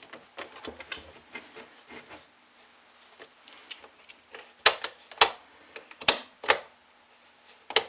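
Light clicking and tapping of small chainsaw parts being handled, then four sharp snaps in the second half, as the reassembled Stihl 021 chainsaw's parts are worked by hand and checked.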